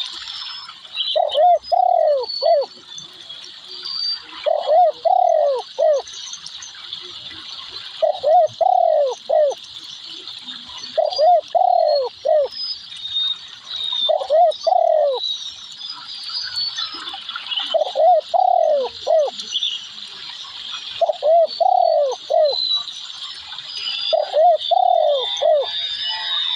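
Spotted dove cooing: a phrase of three or four low coos repeated about every three seconds, nine times. Behind it are a steady high-pitched hiss and faint chirps of other birds.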